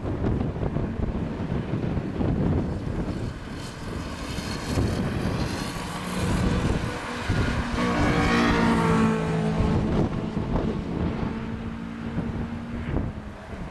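Jet airliner passing close by, its engine noise swelling to a peak about eight seconds in and then fading with a falling pitch, over wind buffeting the microphone.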